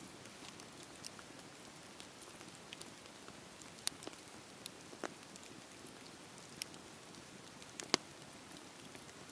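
Wood fire crackling in a fireplace: a soft steady hiss with scattered sharp pops and snaps, two louder pops about four seconds in and near the end.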